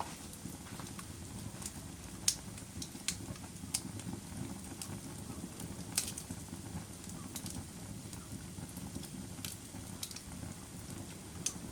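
Wood fire burning in a fireplace: a steady low rush of flames with irregular sharp crackles and pops, the loudest about two seconds in and again about six seconds in.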